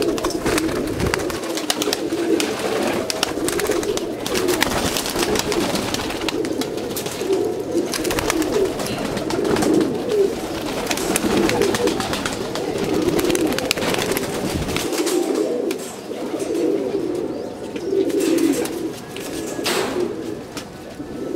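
Several pigeons cooing together in a continuous overlapping chorus, with scattered clicks and taps throughout.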